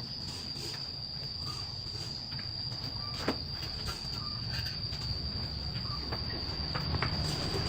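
Crickets keeping up one steady high-pitched trill over a low rumble, with a single sharp click about three seconds in.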